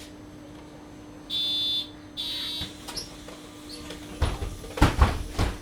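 Two electronic beeps from a MAN Lion's City Hybrid city bus's door warning, each about half a second long, followed a couple of seconds later by several heavy thumps as the doors close, over the bus's steady low hum.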